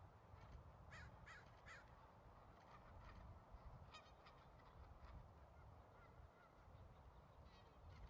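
Faint bird calls over a low steady rumble: a quick run of three short, harsh calls about a second in, then a few scattered calls later.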